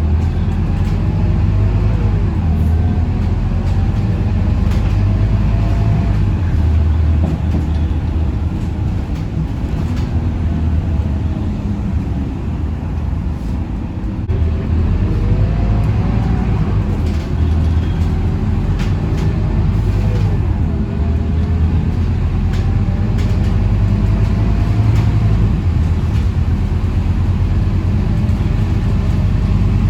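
Scania K230UB city bus heard from on board while driving: steady engine and road rumble with a whine that glides up and down as the bus speeds up and slows. The sound eases off a little around the middle, then picks up again, with a few light rattles.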